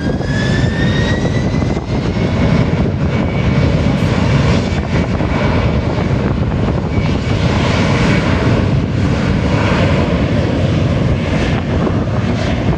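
British Airways jet airliner's engines spooling up for take-off, a whine rising in pitch over the first couple of seconds, then running loud and steady at take-off power as the plane starts its run down the runway.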